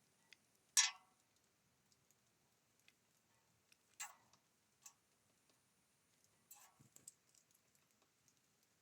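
Birds at a feeder pecking and tapping: a few sharp, irregular taps and clicks, the loudest under a second in, then more about four seconds in and again near seven seconds.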